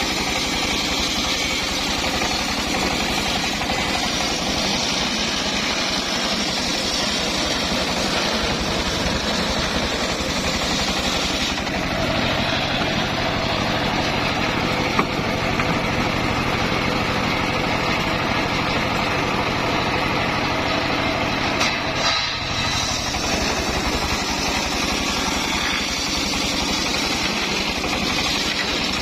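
Homemade circular sawmill running steadily through timber; its tone shifts about twelve seconds in, with a brief click a few seconds later.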